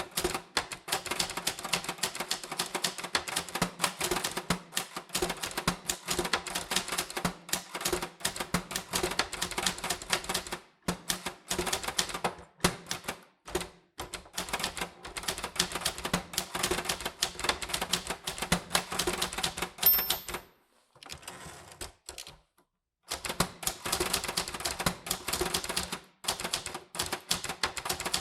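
Typewriter keys striking the paper in quick, uneven runs of clicks. About two-thirds through there is a short high ring, then a brief pause before the typing resumes.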